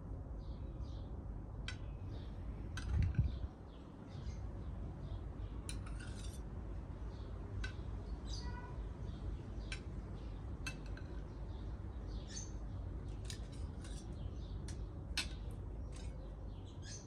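Small birds chirping, with scattered sharp clinks of cutlery against dishes and one low thump about three seconds in.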